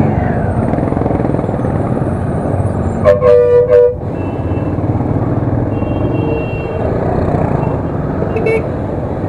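A vehicle horn honking in about three quick pulses around three seconds in, over steady road traffic and riding rumble.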